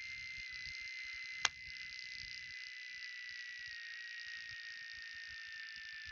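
Faint hiss of a light aircraft's headset intercom audio feed, with a thin steady whine slowly dropping in pitch and a single sharp click about a second and a half in.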